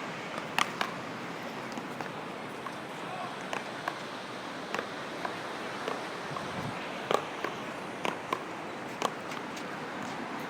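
Scattered sharp smacks at irregular intervals, about a dozen, over a steady outdoor hiss of noise.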